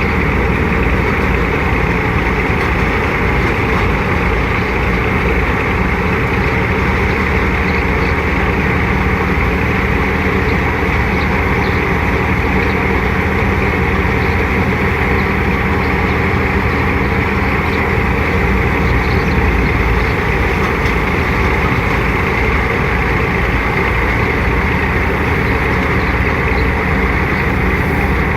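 Tractor engine driving a wheat thresher, both running steadily at working speed with a constant, unchanging rumble.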